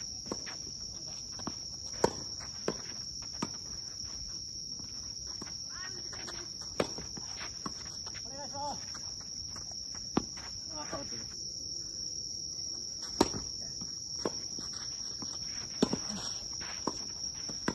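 Tennis balls being struck by rackets and bouncing on the court, sharp single pops at irregular intervals, the loudest about two seconds in and again near thirteen seconds. Under them runs a steady high-pitched insect drone.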